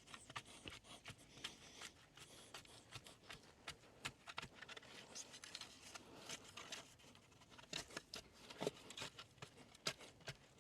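Faint, irregular scraping and crunching of dirt being pushed in around a freshly set post.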